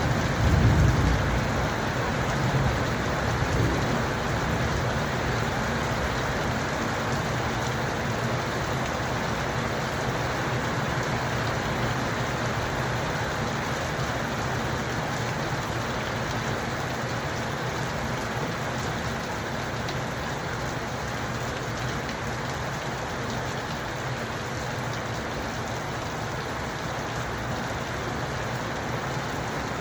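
Steady rain falling and pattering on surfaces. A low rumble swells about a second in and again briefly near three seconds.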